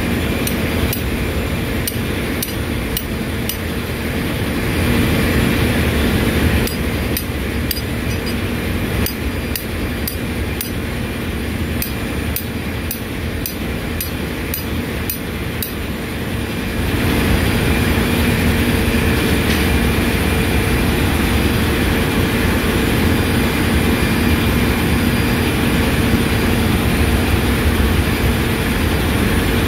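Ship's engine-room machinery running with a steady, loud hum. Light rapid ticks sound through the first half, and about halfway through the machinery grows louder and stays that way.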